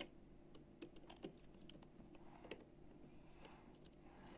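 Faint, scattered clicks and taps of small plastic Lego bricks being handled and fitted, a few irregular clicks over a low hum.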